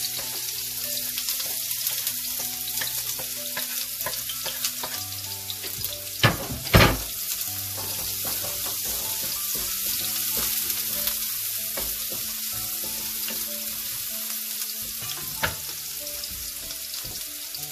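Chopped onion, ginger and garlic sizzling in hot oil in a frying pan while being stirred with a wooden spatula. Two loud sharp knocks come about six to seven seconds in and a lighter one near the end.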